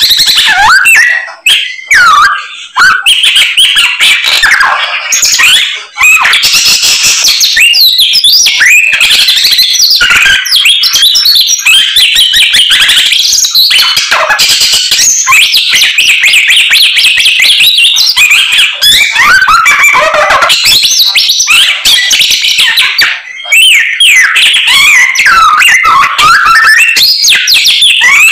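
A samyong songbird singing loudly and almost without pause, a fast, varied run of whistles, warbles and chirps full of learned imitated phrases. The song breaks off briefly a few times, about a second and a half, two and a half and six seconds in, and again near the middle.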